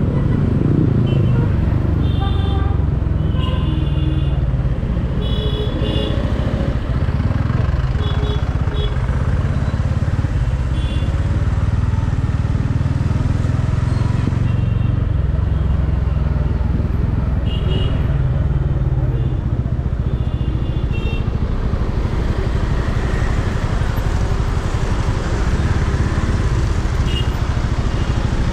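Motorcycle ridden through heavy traffic: a steady engine and road rumble, with short high horn beeps from the traffic several times.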